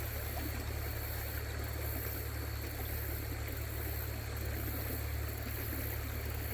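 Steady rushing of creek water, an even noise with no distinct events.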